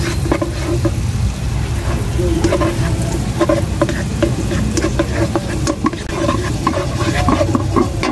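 Minced garlic and sliced onion sizzling in melted butter in a wok, stirred by a spatula that scrapes and clicks against the pan many times. The garlic is being sautéed until fragrant, with the onion just added.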